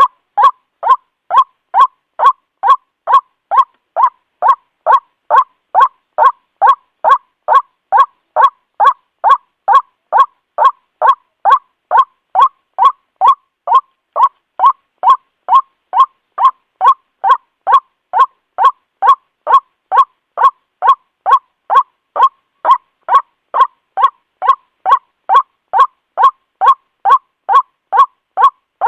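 White-breasted waterhen calling: a loud, short 'kwak' note repeated at an even pace, nearly three times a second, without a pause. This is a lure recording for calling waterhens in.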